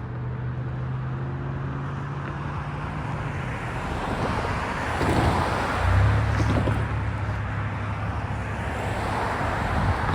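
Freight train passing: a steady low diesel engine drone with rolling wheel and rail noise, which swells about halfway through with a few clanks before the low drone sets in again.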